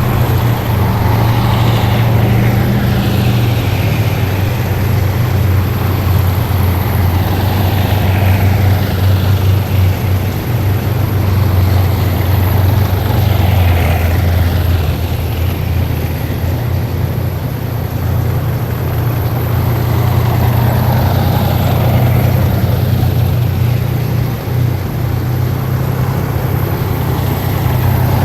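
A column of heavy military vehicles driving past. Their engines keep up a loud, steady low rumble, and a higher whine falls in pitch as each vehicle goes by, several times over.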